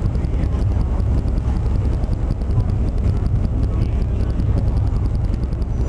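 Wind buffeting the camera's microphone over the steady low rumble of a Star Ferry under way across the harbour.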